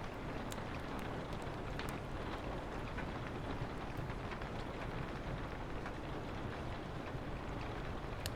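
Steady rain falling, with a soft wind under it, and a few sharp crackles from a wood fire scattered through.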